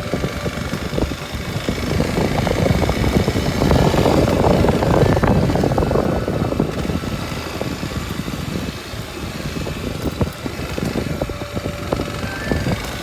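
Kawasaki Super Sherpa's 250 cc single-cylinder four-stroke engine running as the motorcycle rides a forest dirt road, with frequent small knocks from the surface. It grows louder for a few seconds around the middle, then eases back.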